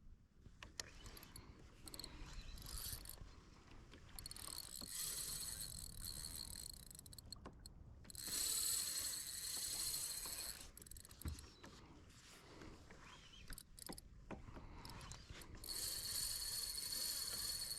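Spinning fishing reel under load from a hooked skipjack tuna: the drag buzzing as line is pulled off, in several runs of two to three seconds each.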